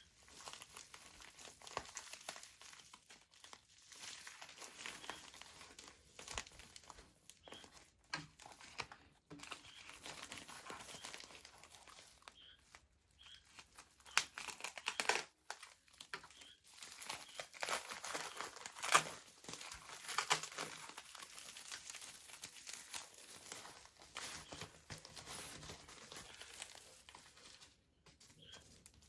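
Paper or plastic packaging being handled: irregular crinkling and rustling with small clicks, picked up close in a small room, loudest about two-thirds of the way through.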